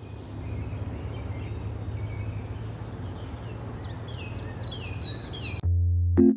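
Outdoor nature ambience: a steady high insect drone with a low hum, and short falling bird chirps in the last couple of seconds. Near the end it cuts off abruptly and electric piano music starts, louder than the ambience.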